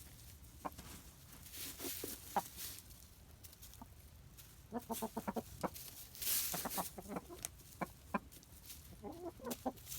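Chickens clucking in short, soft bursts as they forage, with clusters of clucks around the middle and near the end. Two brief hissing noises are also heard, one about two seconds in and one just after the middle.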